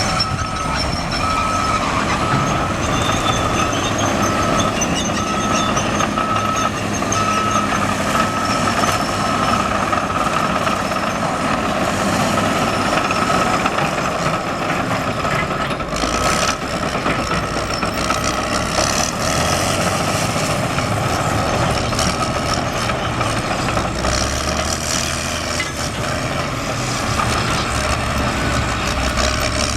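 Cat D6R XW crawler dozer's diesel engine running steadily under load while grading, with a backup alarm beeping regularly as it reverses; the beeping stops about halfway through.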